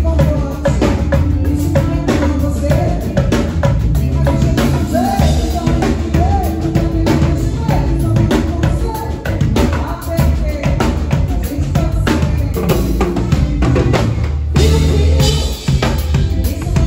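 A live band playing at a sound check, with a prominent drum kit (steady bass drum and rimshots) and a singing voice.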